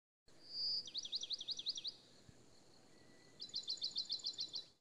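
A small songbird singing: a brief high whistle, then a run of quick sweeping notes, and after a pause a rapid trill of about nine notes a second.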